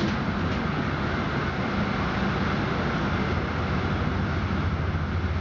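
Steady rumble and hiss of a moving passenger train, heard from inside the carriage. A low hum grows stronger near the end.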